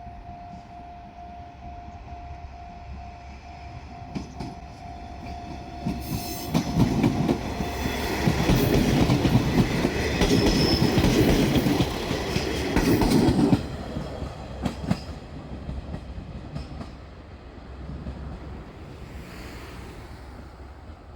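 A level-crossing alarm rings with a steady pulsing tone while a JR Shikoku Series 1200 diesel railcar approaches and passes over the crossing. The wheels clatter over the rail joints, loudest for several seconds in the middle, then fade away. The alarm stops about eight seconds in, as the train goes by.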